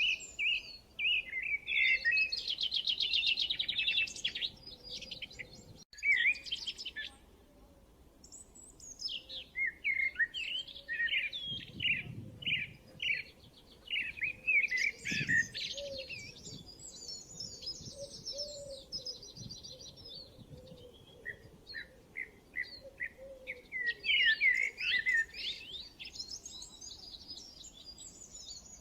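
Several songbirds singing and chirping over one another: fast trills, short repeated chirps and whistled phrases, with a brief break about six seconds in.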